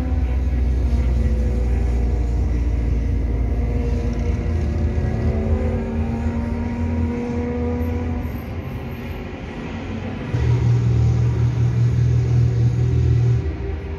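Car engine rumble while driving along, with engine tones rising and falling. About ten seconds in, the sound jumps to an Opel Kadett GSI 2.0's four-cylinder engine, fitted with a 4x1 header and no air filter, running loudly and steadily.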